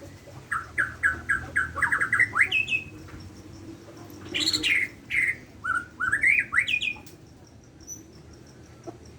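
Murai borneo (Bornean shama) singing: a quick run of short rising whistled notes, a louder burst about four and a half seconds in, then another run of upward-sweeping notes that stops about seven seconds in.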